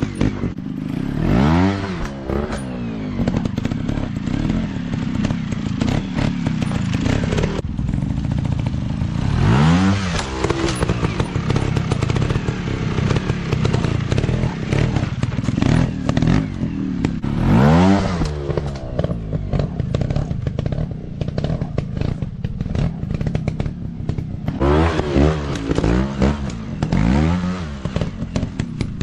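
Dirt bike engines running, revving up and dropping back several times, with scattered clattering knocks.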